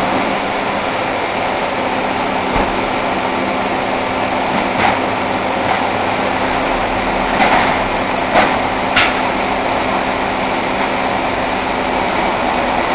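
An engine running steadily with a low hum and a constant rushing noise, broken by a few short sharp clicks, most of them in the second half.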